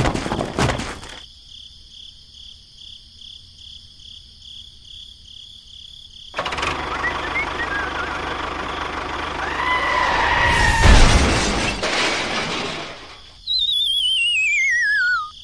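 Cartoon crash sound effects for an overturning toy tractor: a clatter of falling rocks at the start, a noisy rush that builds to a loud crash about eleven seconds in, then a whistle sliding down in pitch with a wobble near the end.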